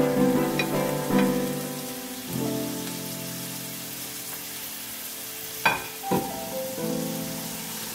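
Bok choy and shrimp frying in a wok: a steady sizzling hiss under background music with sustained chords. About two-thirds of the way through come two sharp knocks, half a second apart.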